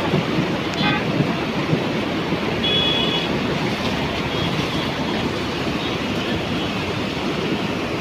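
Rushing water of a river swollen by heavy rain, a steady dense noise, with a brief high-pitched tone about three seconds in.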